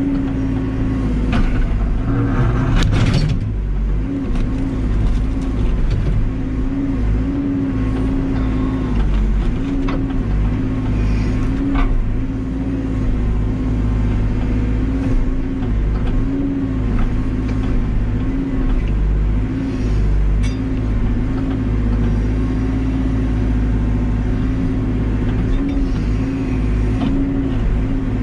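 Cat backhoe's diesel engine and hydraulics running under load, the engine note dipping and recovering about once a second as the controls are worked. A brief clatter about three seconds in.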